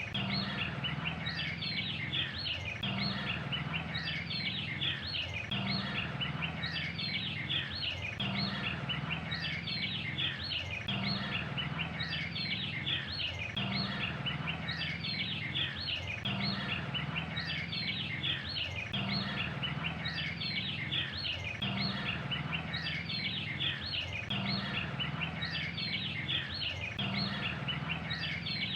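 A dense chorus of many birds chirping and twittering over a low background hum. The same stretch of a few seconds repeats over and over, as a looped recording would.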